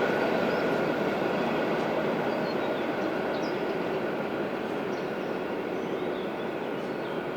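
EP2D electric multiple unit running on the line, a steady rumble with a faint steady whine, slowly fading as it draws away.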